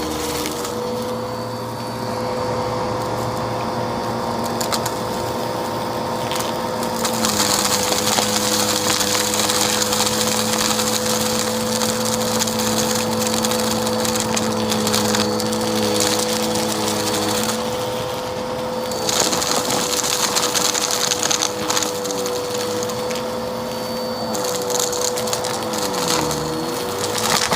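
Vacuum cleaner running steadily while sucking up a pile of dirt, with crunchy crackling as the debris rattles through. The crackle grows louder and brighter for long stretches, and the motor's pitch dips briefly a few times near the end as the nozzle loads up.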